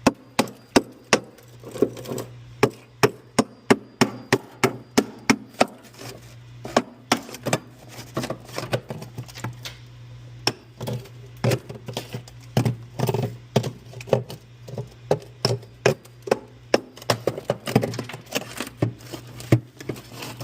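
Repeated sharp knocks and taps, irregular at roughly two a second, from striking at a part inside a refrigerator's freezer compartment to work it loose, over a steady low hum.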